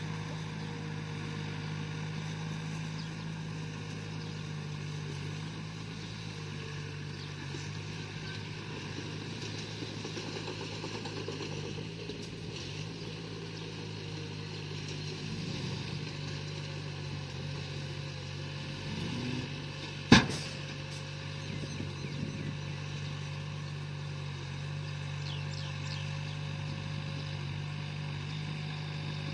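Bulldozer's diesel engine running steadily, with one sharp knock about twenty seconds in.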